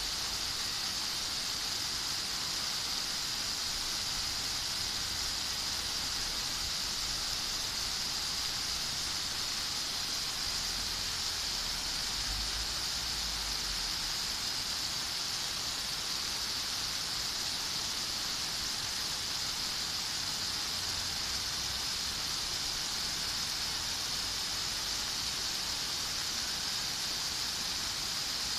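Steady rain falling in a garden, an even, constant hiss. A faint low rumble passes briefly about halfway through.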